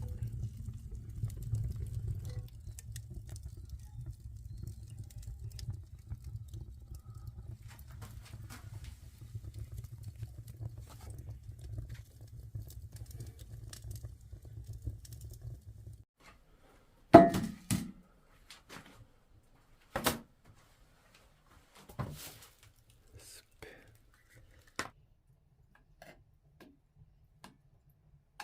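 A steady low rumble that cuts off abruptly, followed by scattered knocks and clicks, the loudest a sharp knock soon after the rumble stops.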